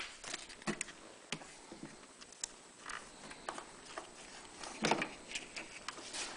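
Scattered light clicks and taps of hands working a rubber fuel hose and fittings on a generator, the loudest knock about five seconds in.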